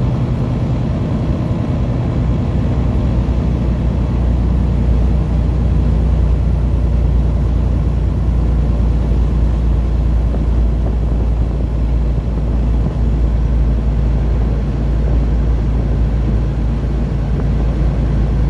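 Semi-truck diesel engine pulling steadily up a long grade under load, heard from inside the cab as a steady low drone that grows a little louder about four seconds in. The heater is running on high to draw heat off the engine and keep its coolant temperature down on the hot climb.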